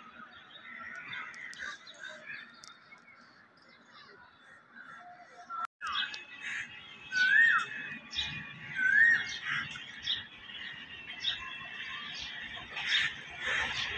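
Birds calling trackside: scattered chirps, and in the second half a clear whistled note that swoops up and down, twice about a second and a half apart. A faint low rumble comes in under it in the second half.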